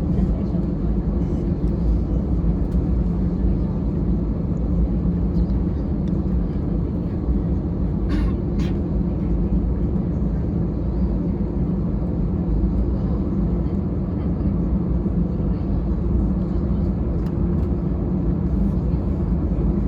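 Steady low rumble of an Airbus A320-216's CFM56 engines and airframe heard inside the passenger cabin, with no rise in pitch. There are two short knocks about eight seconds in.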